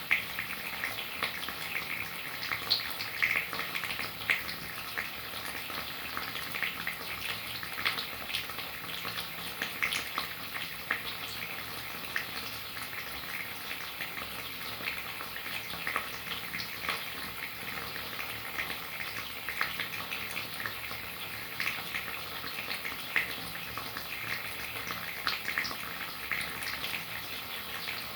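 Steady rain: a constant hiss with many small drop ticks scattered through it.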